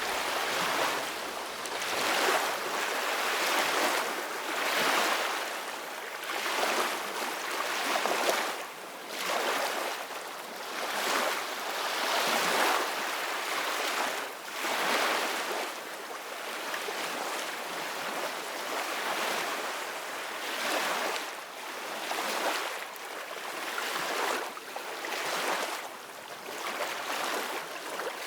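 Ocean waves breaking and washing in, a hiss that swells and ebbs about every two seconds.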